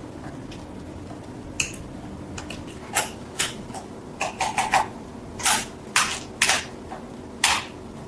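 An irregular series of short, sharp clicks and knocks from hard objects being handled, about a dozen starting near two seconds in, over a steady low hum.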